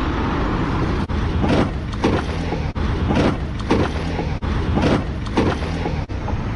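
Superbike running on the road with heavy rushing wind noise, the sound cutting out sharply for an instant about every second and a half.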